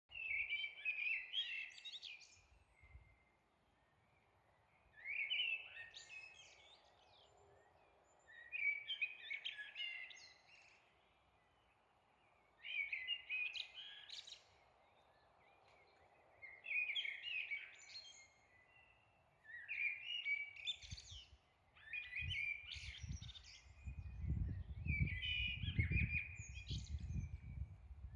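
Eurasian blackbird singing: about eight song phrases, each around two seconds long, with short pauses between them. A low rumble comes in over the last several seconds.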